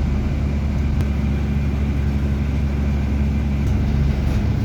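Bus engine running steadily with a low rumble, heard from inside the moving bus.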